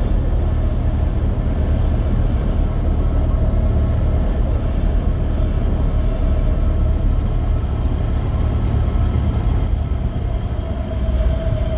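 Steady drone of an aircraft's engine and rushing air during a forward slip: a loud low rumble with a humming tone that grows stronger near the end.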